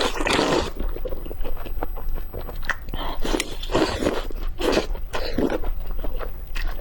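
A person eating close to the microphone: irregular bites and chewing, with a few sharp mouth clicks between them.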